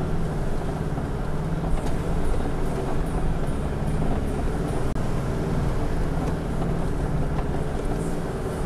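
4WD engine running steadily at low revs as the vehicle crawls over a rough, rocky track, with a few light clicks and knocks.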